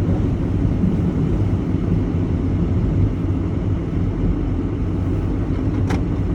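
Vehicle engine running steadily with a low rumble, and one short click near the end.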